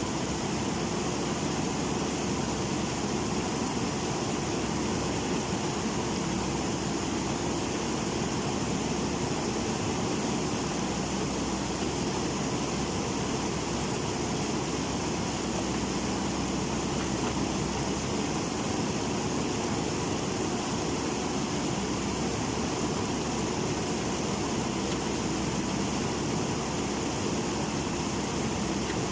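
Steady rush of a flood-swollen river, with an engine running evenly beneath it.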